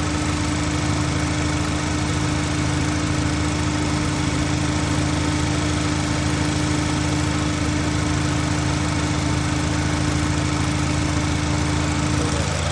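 Cadillac ATS engine idling steadily with its cooling system freshly refilled and holding operating temperature. A steady tone running with the idle stops shortly before the end.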